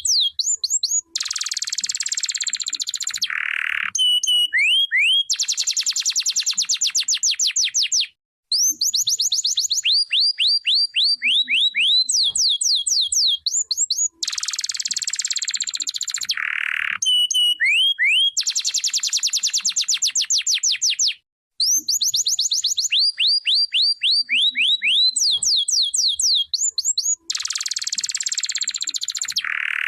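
Canary singing: runs of quick whistled chirps alternate with dense, rapid trills. The same sequence of phrases repeats about every 13 seconds.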